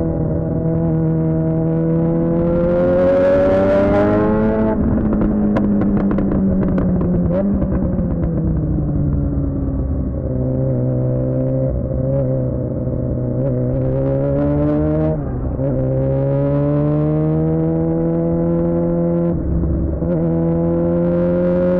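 Suzuki GSX-R600's inline-four engine through a Yoshimura R11 exhaust, ridden hard. It revs up, backs off with a spell of crackling about five seconds in, then pulls up again with quick dips in pitch at each upshift.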